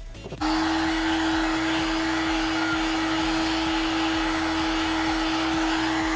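Electric heat gun blowing steadily with a strong, even hum, switched on about half a second in and running without change; it is heating the crankcase so a crankshaft bearing can be set in.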